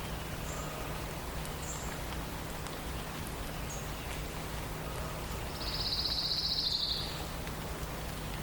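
A songbird sings one rapid trill lasting about a second and a half, starting a little past halfway, the loudest sound. Faint short high notes from other birds come before it, over a steady background hiss.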